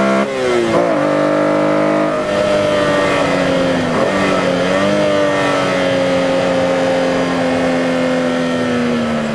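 BMW E46 M3's 3.2-litre straight-six engine heard from inside the cabin on track. Its pitch drops sharply in the first second as the driver comes off the power, then holds and sinks slowly as the car goes through a corner.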